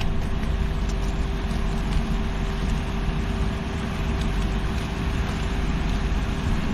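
Vehicle engine running steadily, with a constant hum under it.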